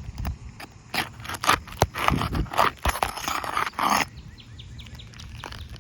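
Asphalt roof shingle being pried up, its sealant strip tearing loose with repeated scraping and crackling and a few sharp clicks; it stops about four seconds in.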